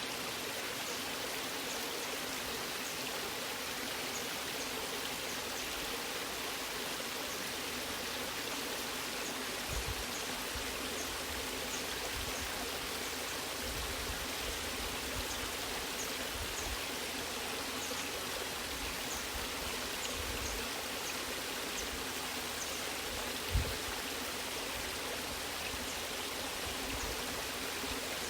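Waterfall: a steady, even rush of falling water, with a brief low thump about three-quarters of the way through.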